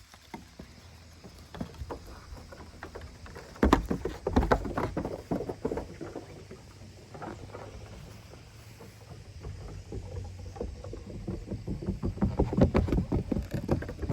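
Goat kids scrambling and playing, their hooves and bodies making irregular knocks and scuffles that come thickest about four seconds in and again near the end, over a low steady rumble.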